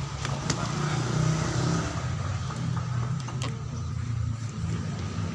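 An engine idling steadily with a low hum, with a couple of sharp metallic clicks about half a second and three and a half seconds in.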